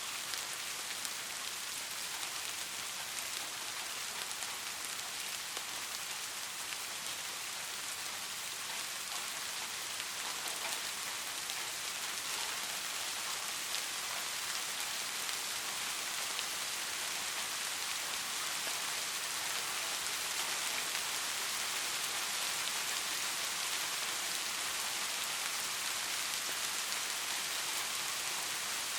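Steady rain falling on a surface: an even hiss of many fine drops, strongest in the highs.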